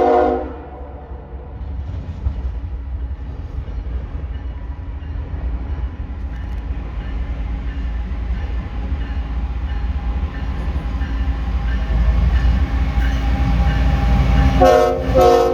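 Diesel locomotive air horn finishing a blast, then the low rumble of the train drawing closer and growing louder, and two short horn blasts near the end.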